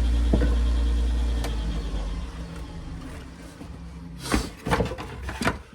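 Wood lathe motor running steadily, then switched off and winding down to a stop over about two seconds; a few sharp knocks and clicks follow near the end.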